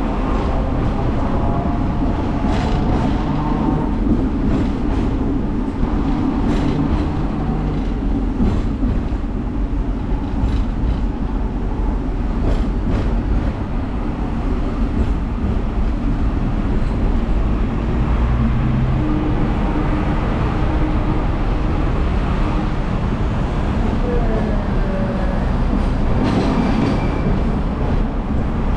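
Hong Kong double-decker electric tram running along its tracks, heard on board: a steady rumble of wheels and motor with scattered clicks and knocks from the rails.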